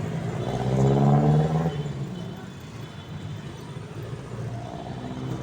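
Motor vehicle engine in traffic accelerating, its pitch rising over the first two seconds, then settling back to a steady low rumble.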